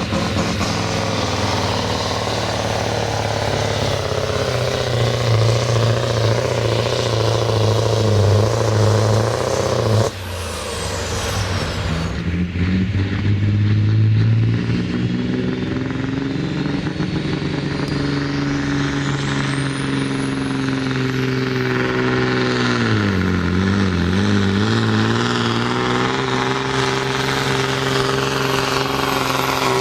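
Heavy truck diesel engine running hard under load. Its pitch sags briefly about two-thirds of the way through, then recovers. A thin high whine climbs steadily through the middle.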